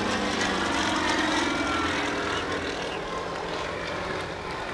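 Steady jet noise from BAE Hawk T1 jets' Rolls-Royce Turbomeca Adour turbofans flying past in a formation display, growing slightly quieter toward the end.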